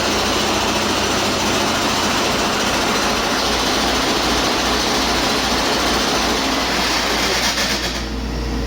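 2013 Detroit Diesel DD13 inline-six diesel engine running steadily on a test run, with a low, even pulsing under a broad mechanical clatter and hiss. A little before the end the hiss in the upper range lessens.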